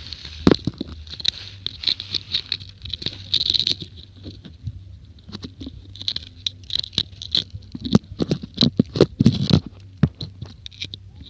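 Gulls pecking at and tearing food: irregular sharp taps and scrapes, thickest near the end, with runs of short high repeated notes.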